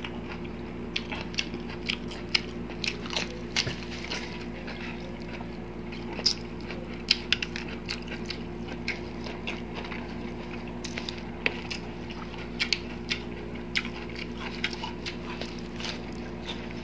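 Close-miked crunching and chewing of crispy fried food: irregular sharp crackles scattered throughout, over a steady low hum.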